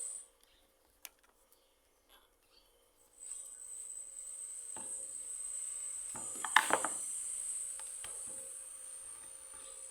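Tools being handled against wood and metal: a few separate knocks and a short, louder clatter about six and a half seconds in, over a steady hiss. The first three seconds are almost silent apart from a single click.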